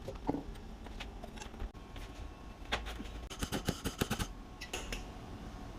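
Sharp metallic clicks and clinks of hand tools and bench grinder parts being handled, with a quick run of clicks in the middle.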